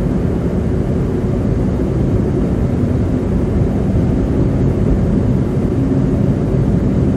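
Steady road noise inside a moving car: tyres running on a wet, slushy highway, with a low hum from the engine and drivetrain.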